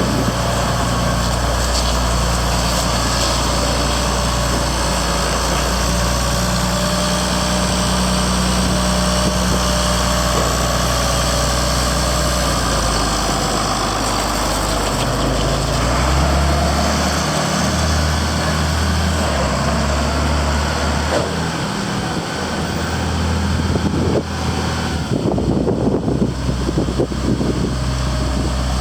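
Farmall 1066 tractor's six-cylinder diesel engine running steadily. The engine note shifts about sixteen seconds in, and it turns rougher and uneven near the end.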